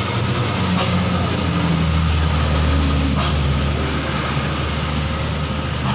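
Diesel engine of a heavily loaded dump truck running steadily, a low drone with road and tyre noise over it.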